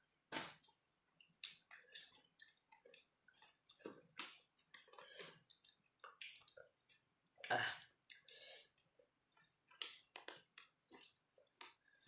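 A person chewing and smacking while eating fried rice with their fingers: faint, short, irregular mouth sounds, with one louder burst about seven and a half seconds in.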